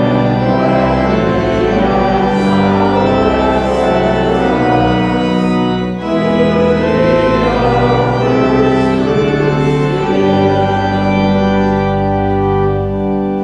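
Church organ playing held chords that change every second or so, with a short break between phrases about six seconds in.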